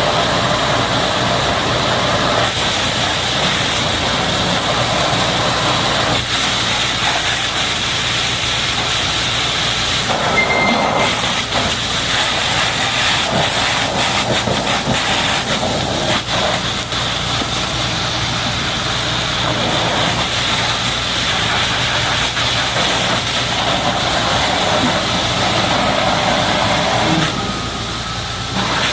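A high-pressure water jet spraying steadily against a bulldozer during washing, with a steady low machine hum beneath. The spray lets up briefly near the end.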